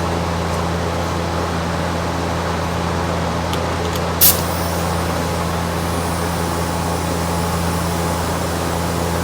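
Shop fan running with a steady low hum, drawing off primer overspray. A short, sharp hiss of air cuts in about four seconds in.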